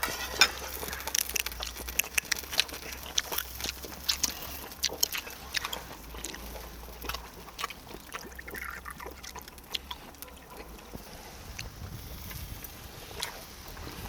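Close-up chewing of charcoal-grilled duck meat: irregular wet smacks and clicks of the mouth.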